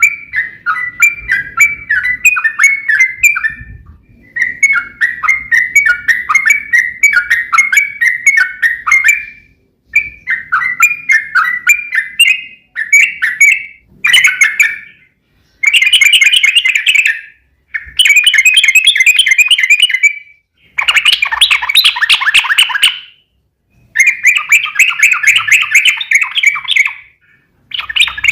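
Yellow-vented bulbul (trucuk) singing in loud phrases of quick chattering notes separated by short pauses. From about halfway through the phrases become dense, rapid trills lasting a second or two each.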